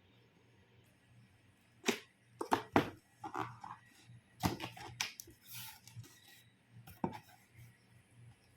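Cardboard packaging of an electric kettle being handled and opened: a run of irregular sharp knocks and clicks, with a brief rustle about halfway through.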